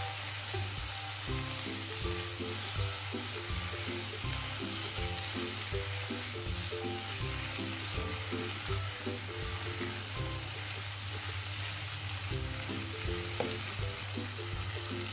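Food sizzling steadily as it fries in hot oil in a pan.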